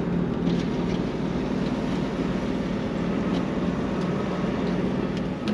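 Semi truck's diesel engine running steadily, a low even hum, as the rig moves slowly around the loading docks.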